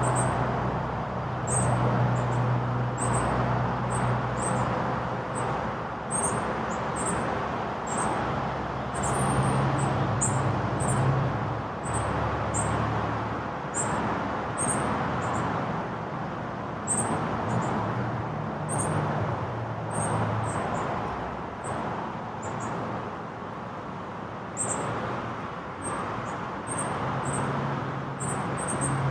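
Short, very high-pitched bird chirps repeating every second or so over a steady hum of road traffic.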